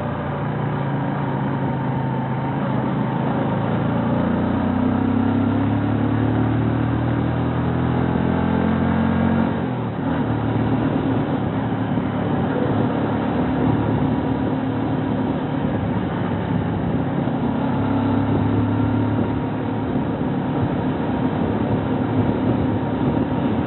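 Bajaj/Kawasaki Rouser NS125 FI single-cylinder motorcycle engine under way, its pitch rising for several seconds as it accelerates. The pitch drops sharply about ten seconds in and then climbs again, with a dip near the end.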